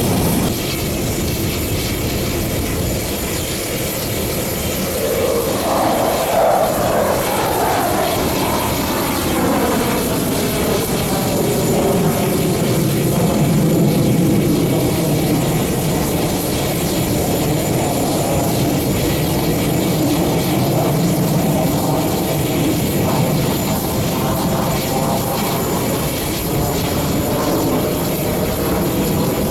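Military jet fighters flying an aerobatic display, a steady loud jet roar with a whine that falls in pitch about five seconds in as a jet passes.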